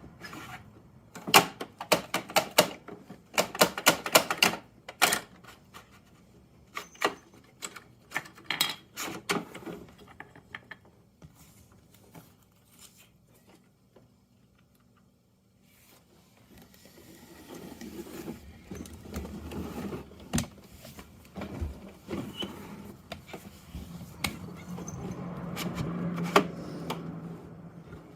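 Rapid plastic clicks and clatter from a Bruder Mack toy garbage truck's parts being worked by hand. After a few quiet seconds comes a rougher, steadier handling noise with a low hum that grows toward the end.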